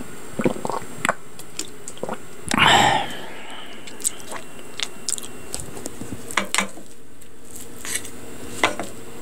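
Close-miked chewing of fried bread, with scattered crisp bites and wet mouth clicks, and one longer, louder rustling crunch about two and a half seconds in.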